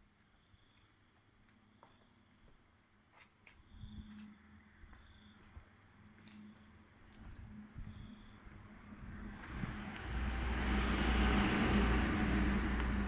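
Crickets chirping in short pulsed trills, with a few clicks. A motor vehicle is heard approaching, growing loud with a low rumble from about ten seconds in.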